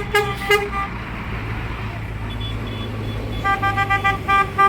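Vehicle horns tooting in short blasts: a few toots at the start, then a quick run of repeated toots near the end, over a steady low engine drone.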